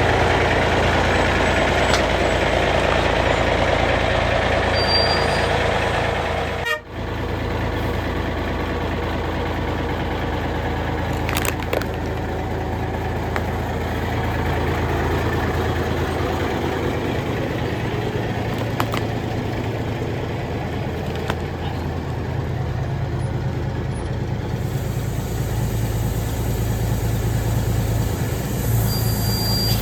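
A 1986 AM General M923A1 5-ton 6x6 army truck's diesel engine running steadily, with a short break in the sound about seven seconds in.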